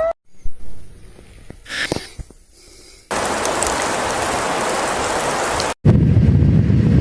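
Storm noise across a few short cut clips: a few isolated thumps in a quiet stretch, then a steady hiss from about three seconds in. After a sudden cut near the end comes a louder, low, gusting rumble of wind on the microphone.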